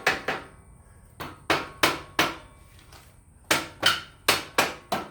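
A hammer striking the steel parts of a backhoe quick-attach coupler as it is driven into place: about eleven sharp blows in quick groups of two or three, each with a short ring.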